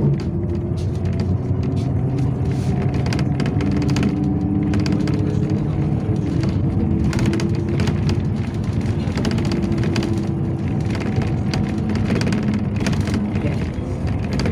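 Inside a Yutong ZK6118HGA city bus under way: a steady engine and drivetrain drone with a faint whine that drifts slowly in pitch, and frequent small rattles and knocks from the body and fittings.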